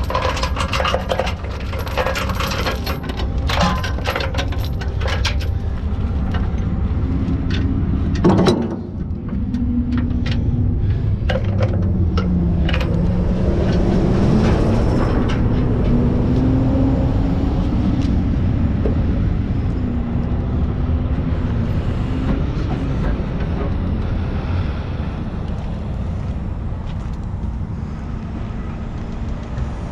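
Heavy truck engine running with a steady low drone whose pitch rises and falls. For the first several seconds it is mixed with quick metallic clinks and rattles, and a single loud knock comes about eight seconds in.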